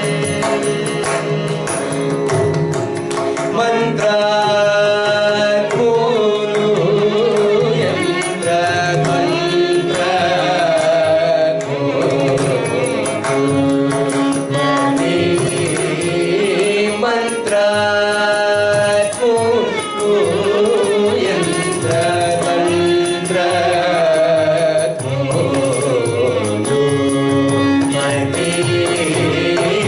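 Carnatic vocal music: a voice singing gliding, ornamented phrases over steady, rapid mridangam strokes.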